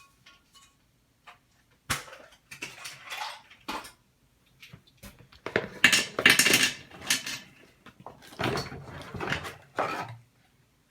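Toilet repair parts clattering and knocking as they are handled, in several bursts, loudest about six seconds in.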